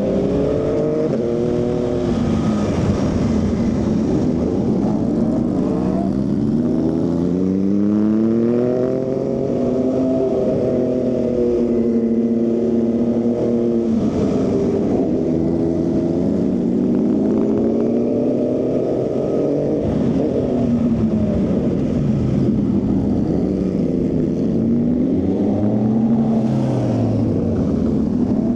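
Motorcycle engine and exhaust under way, the pitch rising as it accelerates and dropping as the throttle closes or it shifts gear, several times over.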